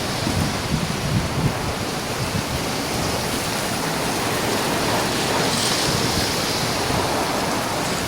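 Steady rushing of storm wind and rain.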